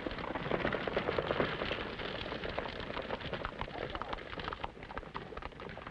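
Horse's hooves clattering and thudding in a dense, irregular patter as the horse is ridden hard, heard through the hiss and crackle of an early optical film soundtrack.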